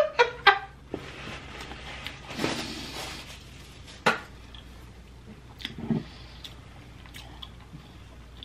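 Close-miked chewing of a mouthful of garlic toast: wet, squishy mouth sounds after a brief giggle at the start. A single sharp click comes about four seconds in.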